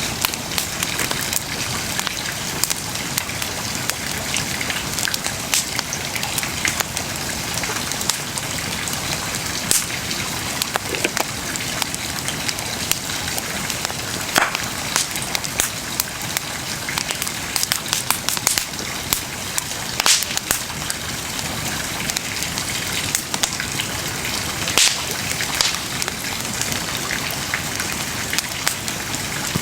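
Wood bonfire burning with a steady hiss and constant crackling, broken by a few louder pops from the burning wood.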